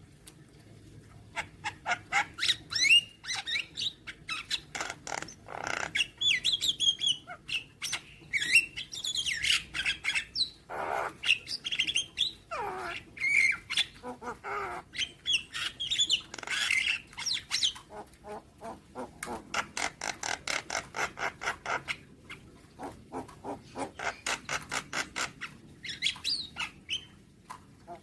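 Javan myna (jalak kebo) singing a varied, chattering song of harsh squawks, bending whistled notes and clicks. In the second half it gives two long runs of fast, evenly spaced clicks.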